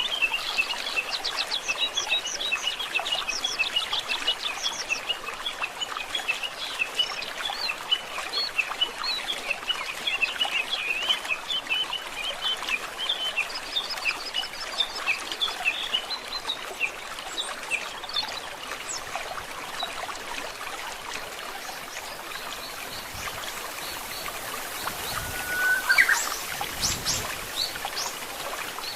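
Birds chirping and calling in quick, busy runs over the steady trickle of running water. Near the end a single louder call rises in pitch.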